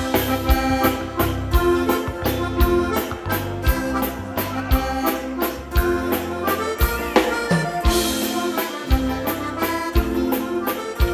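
Instrumental passage of a bandinha waltz: accordion carrying the melody over bass and drums, with a steady beat and no singing.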